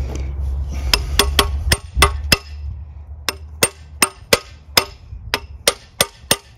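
Hammer tapping a bar to knock a Welsh (core) plug into the Holden grey motor block: a run of about seventeen sharp metallic knocks, each with a short ring, in quick groups with brief pauses. A low hum fades out over the first couple of seconds.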